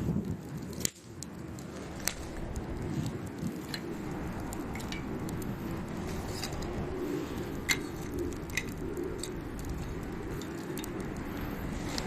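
Wood campfire burning, with scattered sharp pops and snaps over a steady low rustle.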